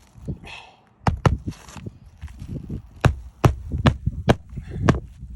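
A hammer driving a nail into a roof shingle: about seven sharp strikes at an uneven pace.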